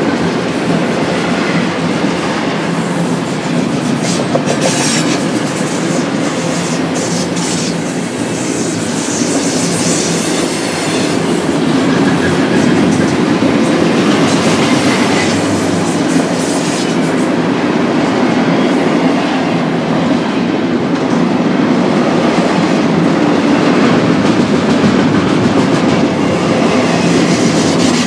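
Double-stack intermodal freight cars rolling past on the rails, a steady heavy rumble with wheels clicking over rail joints. About a third of the way in, a thin high wheel squeal sounds for several seconds, falling slightly in pitch.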